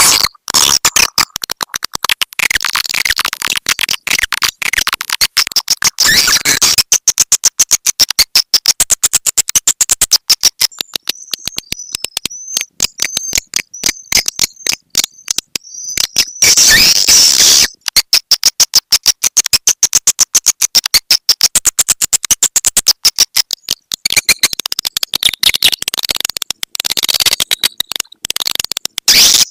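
Swiftlet call recording: fast, dense trains of sharp, high chirping clicks. A thinner stretch with a fluttering high trill comes in the middle, then the rapid chatter returns. This is the 'walet petir' lure call played to attract swiftlets to a nesting house.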